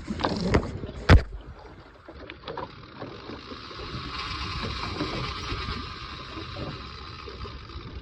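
A sharp knock about a second in, then from about three seconds the steady high buzz of a single-speed 30 tuna reel's drag paying out line as a big yellowfin tuna runs.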